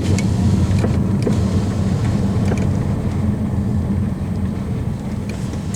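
Steady low rumble of a car's engine and road noise, heard from inside the moving vehicle, with a few faint clicks.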